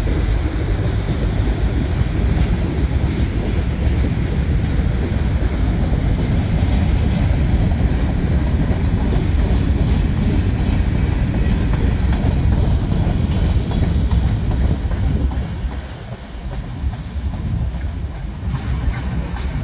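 Freight cars of a CN train rolling past, wheels clattering steadily on the rails; the sound dips briefly about sixteen seconds in, then picks up again.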